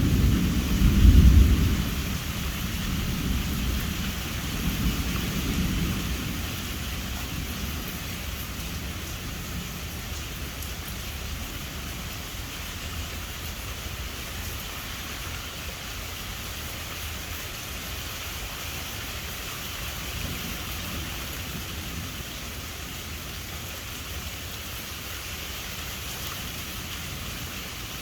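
Thunder rumbling loudly at the start, then dying away over several seconds, with steady rain hissing underneath throughout.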